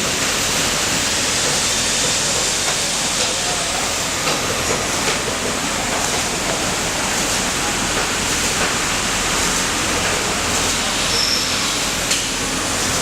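Steady, loud hiss-like din of sewing machinery running, with a few faint clicks and no clear stitching rhythm.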